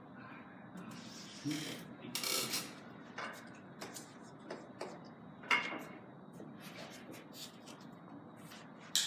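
Carom billiard balls and cue clicking: a scattered series of sharp clicks, the loudest about five and a half seconds in and another near the end.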